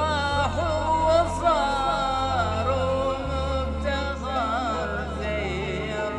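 Arabic sung poem: a male voice singing a melismatic line that wavers up and down in pitch, over a steady low drone.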